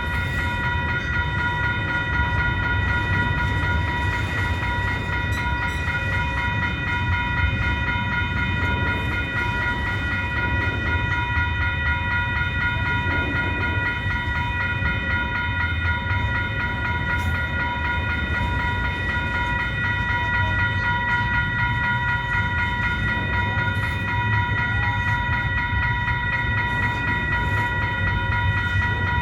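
Freight train cars rolling steadily past with a continuous low rumble, over which a steady high-pitched whine of several tones holds unchanged throughout.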